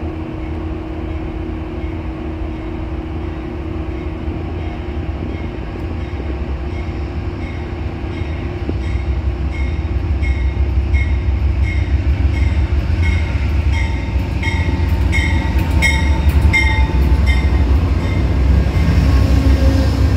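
Amtrak P42DC diesel locomotive pulling into the station: its engine and wheels rumble, growing steadily louder as it comes alongside. From about six seconds in, a bell rings in an even rhythm of repeated strokes.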